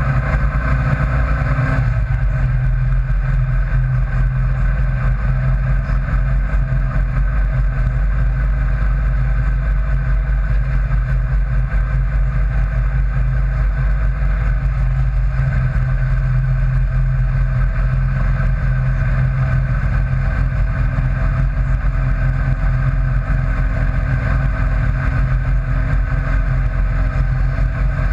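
Car engine running loud and steady at highway cruising speed. The engine note shifts slightly about two seconds in and again about halfway through.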